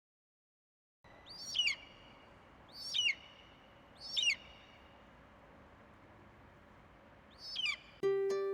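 A bird calling four times, short whistled calls that loop and fall in pitch, with a longer gap before the last. Plucked-string music starts just before the end.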